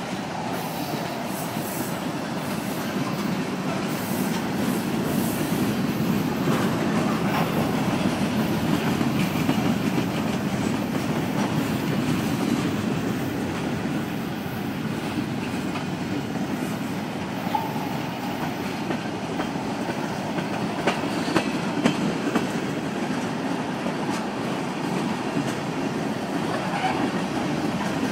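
Union Pacific freight train's tank cars and covered hopper rolling past: a steady rumble of steel wheels on rail, with a few sharp clacks about two-thirds of the way through.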